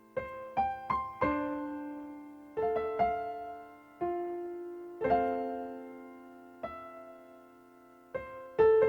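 Slow, gentle solo piano music: single notes and chords struck and left to ring and fade.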